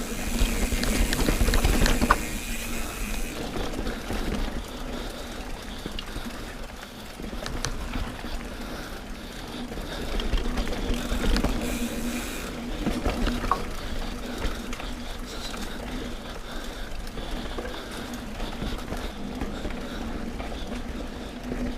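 A mountain bike riding along a sandy dirt trail, with the chain and drivetrain ticking, rattling and crunching and the tyres rolling over dirt and roots; the chain is full of sand, clay and grit. Louder rushing stretches come near the start and again about halfway through.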